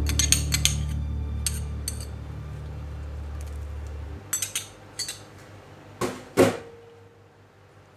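Cutlery and dishes clinking and knocking in a series of short, sharp strikes, with the loudest two knocks about six seconds in. A low steady hum underneath cuts off about four seconds in.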